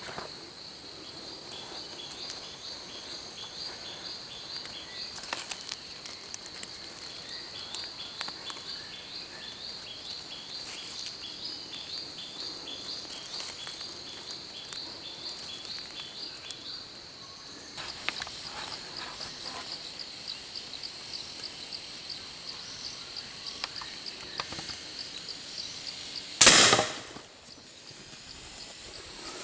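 Insects droning at a steady high pitch with rapid, regular chirps, then one loud shot near the end that rings out for about half a second.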